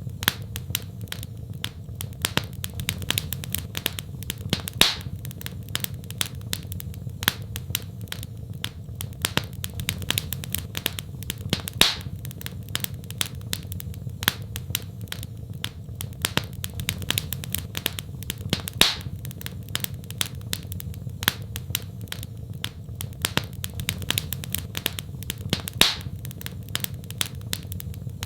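Wood fire in a fireplace crackling steadily, with dense small snaps over a low rumble and a louder pop about every seven seconds.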